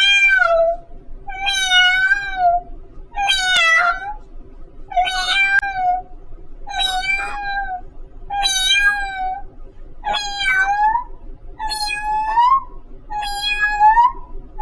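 A woman imitating a cat with her voice: a series of about nine meows, one every second and a half or so, the later ones rising in pitch at the end.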